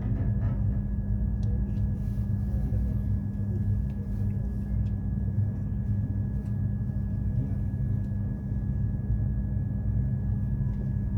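Train's steady low rumble with a constant droning hum.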